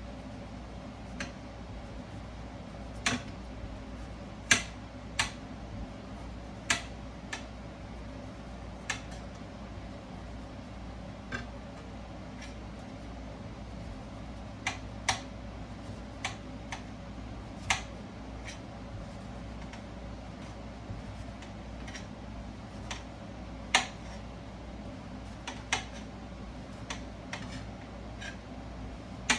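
Light clicks and knocks of small objects being handled, about twenty at uneven intervals, over a steady low hum.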